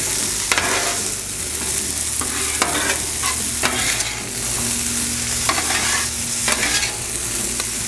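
Small cubed potatoes sizzling in oil on a hot Blackstone steel flat-top griddle, with a metal spatula scraping across the plate every second or so as they are stirred and tossed.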